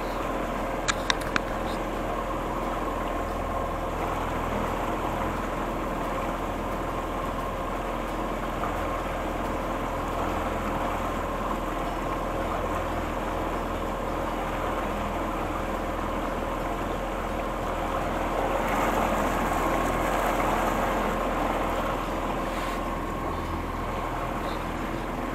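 Boat motor running steadily, with a few light clicks about a second in and a slight rise in level about three quarters of the way through.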